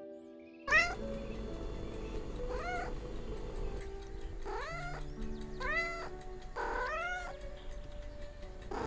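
Domestic cat meowing about five times, each call rising then falling in pitch, over calm background music.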